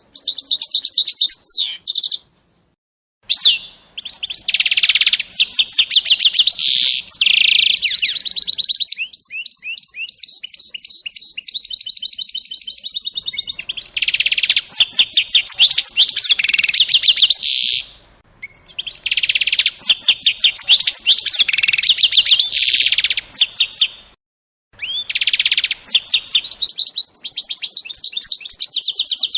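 A small songbird singing long, fast trills and chirps in phrases several seconds long, with brief silent breaks between them.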